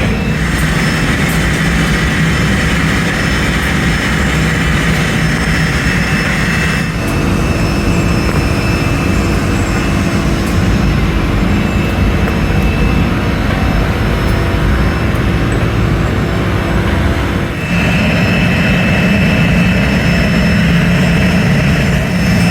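Loud, steady roar of running factory machinery with a faint steady whine, changing character abruptly about seven seconds in and again near the end.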